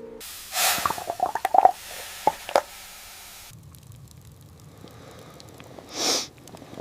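A dog snuffling and snorting, with short sharp vocal sounds in the first couple of seconds, then one loud snort about six seconds in.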